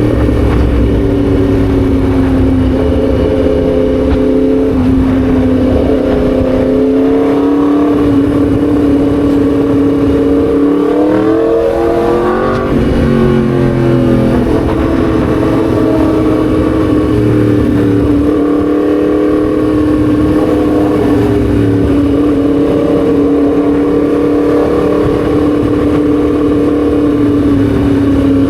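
Yamaha MT-10 SP's crossplane inline-four engine pulling along at steady revs. The engine note climbs about eight to twelve seconds in, then drops sharply around twelve seconds before settling back to a steady pitch.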